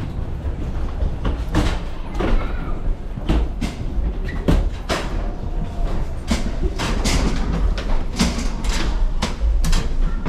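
Busy ambient noise of a place full of moving people: a steady low rumble with irregular knocks and clatter, and faint voices in the background.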